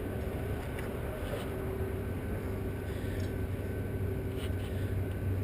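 An engine idling steadily with a low hum, with a few faint clicks over it.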